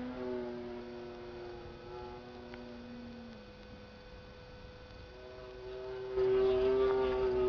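Kyosho Red Bull RC plane's motor and propeller whining in flight, a steady tone that shifts in pitch and grows louder near the end. Wind buffets the microphone over the last second or so.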